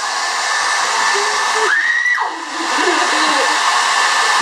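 Hand-held hair dryer running steadily with an even blowing hiss, with a short voice sound over it about two seconds in.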